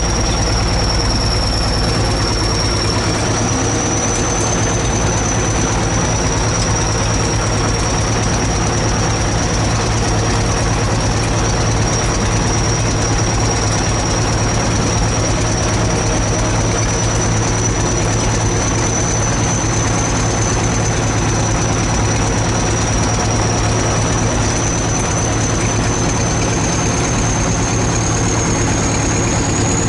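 ChTZ T-170 bulldozer's heavy diesel engine running steadily, with a thin high whine over it that drifts slightly in pitch.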